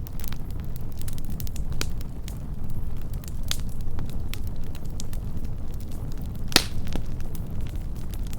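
Wood campfire burning close up: a steady low rumble of flame with scattered sharp crackles and pops, the loudest pop about six and a half seconds in.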